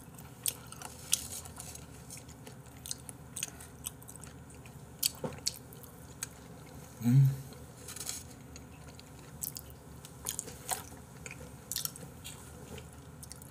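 A person chewing raw beef offal: wet mouth clicks and smacks scattered throughout, with a short low hum from the eater about seven seconds in.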